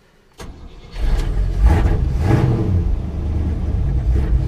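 Chevy 454 big-block V8 cold-starting: it cranks briefly, catches about a second in with a couple of quick revs, then keeps running steadily.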